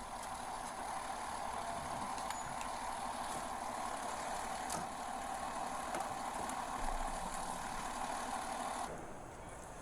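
A vehicle engine running steadily at idle, with a constant hum, which cuts off suddenly near the end.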